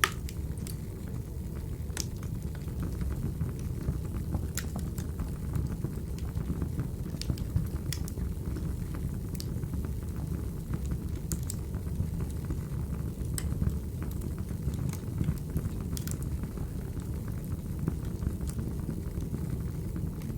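Wood fire crackling: a steady low rumble of burning logs with scattered sharp pops every second or two.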